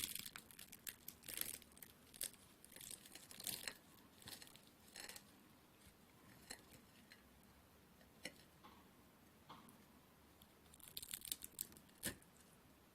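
Knife cutting through crisp, syrup-soaked dilber dudağı baklava, its baked pastry layers crackling and crunching in quick short runs over the first five seconds or so, a few scattered crackles after, then another burst about eleven seconds in. The crackle is the sign of pastry baked through and crisp.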